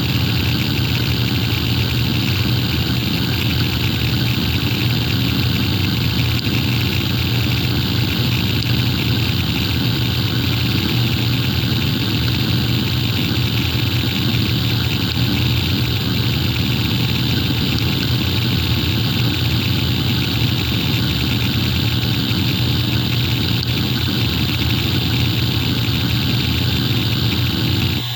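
Hitachi Deskstar E7K500 7200 rpm hard drive running, a steady low spindle hum under a dense, rough, grainy noise.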